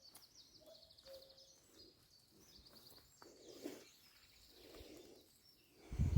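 Faint songbird song, short fast trilled phrases repeating, over quiet outdoor ambience with a few soft rustles. A low thump just before the end is the loudest sound.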